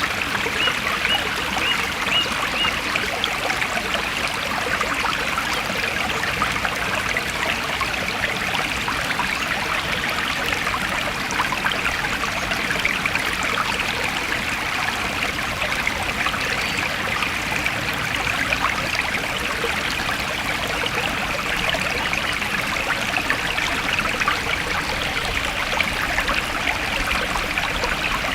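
Forest stream flowing steadily, a continuous trickling, splashing rush of water.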